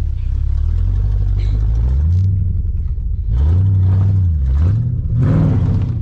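Vehicle engine revving up and falling back about three times under load as it tows a stuck pickup through snow on a strap.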